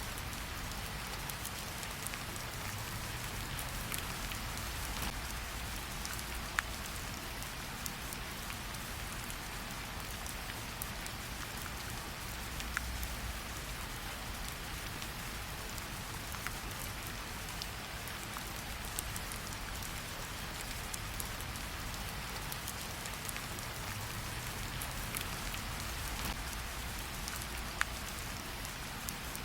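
Steady rain hissing, with a low rumble beneath and a few sharp crackling pops from a campfire scattered through.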